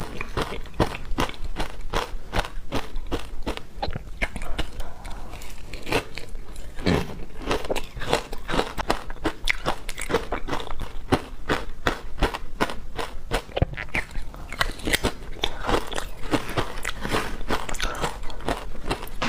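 Teeth biting into wet, frozen matcha ice, a steady run of sharp crunches, several a second.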